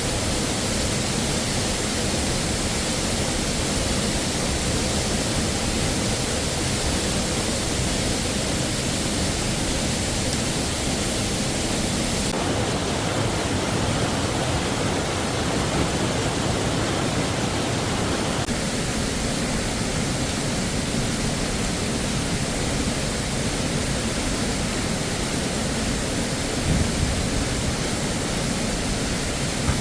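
Waterfall rushing as a steady wash of water noise; its tone changes abruptly about twelve and eighteen seconds in. A brief low knock near the end.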